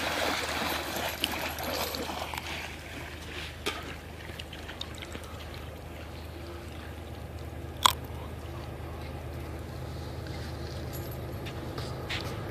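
A dog splashing as it runs into shallow water in the first two seconds. Then the low, steady rumble of CSX trains crossing a rail bridge, growing louder near the end. A single sharp click comes about two-thirds of the way through.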